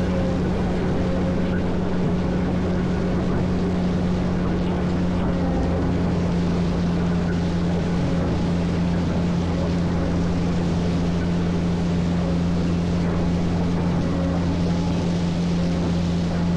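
Caterpillar 140M motor grader's diesel engine running steadily under work, a constant low drone with an even hum.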